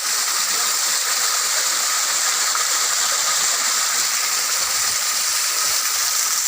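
Steady rushing of water falling at a waterfall, an even hiss with no let-up.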